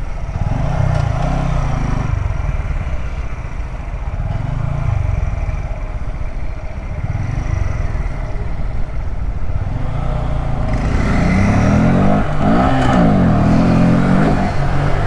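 Small 125 cc single-cylinder motorcycle engine, a Honda Grom, running under way over wind rush, its pitch rising and falling with the throttle and gear changes; it revs harder and louder in the last few seconds.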